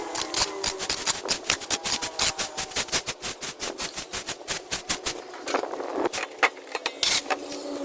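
Rapid, irregular clicking and clattering: many sharp knocks and taps, several a second, like hard objects striking and rattling against each other.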